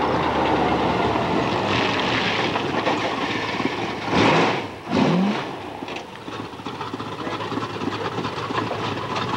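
Car engine running loud, revved hard twice about four and five seconds in with the pitch climbing on the second rev, then dropping back to a steady idle.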